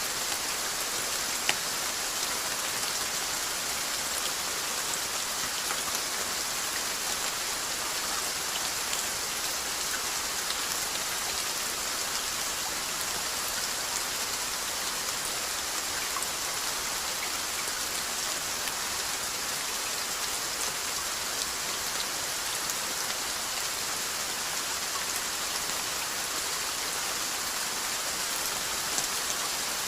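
Steady rainfall: an even, unbroken hiss of rain with scattered individual drops tapping on a surface.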